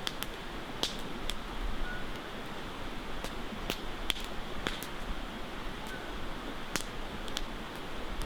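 Campfire crackling: irregular sharp pops and snaps, roughly one or two a second, over a steady background hiss.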